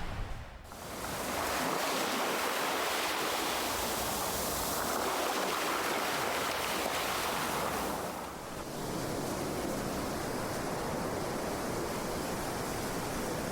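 Ocean surf: waves breaking and washing in as a continuous rushing noise that dips briefly near the start and again about two-thirds of the way through, then swells back.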